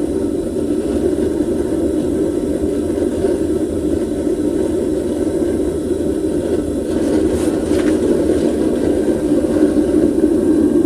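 Homemade propane furnace's burner running steadily, a loud, even rushing noise with no change in pitch.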